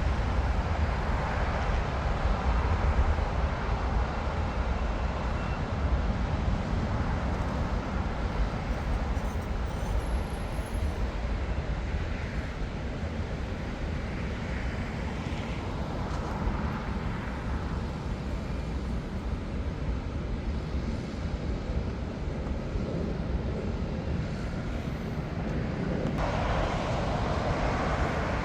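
Airliner jet engine noise at an airport: a steady rush and rumble that swells louder about 26 seconds in.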